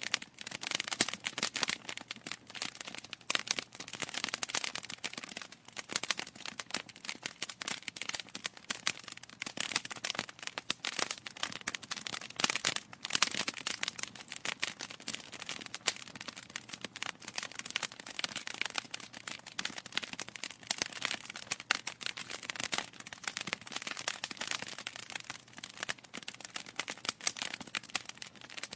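Wood fire crackling in a fireplace: a dense, irregular stream of small snaps and pops from burning logs.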